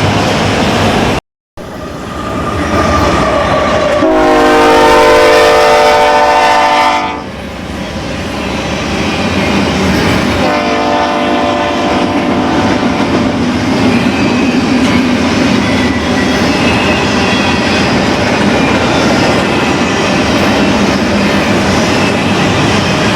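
BNSF diesel freight locomotive sounding its air horn twice, each blast a chord of several notes lasting about three seconds, the first loud and the second quieter, over the steady rumble and clatter of the moving train.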